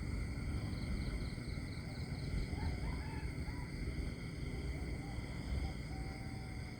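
Countryside ambience: a steady insect chorus, like crickets, over a low rumble. A few faint short chirps come around the middle, and one held call near the end.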